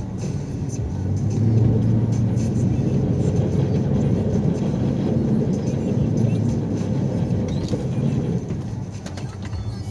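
A snowplow truck's engine runs steadily. It grows louder and rougher about a second in, holds for several seconds, then eases off near the end.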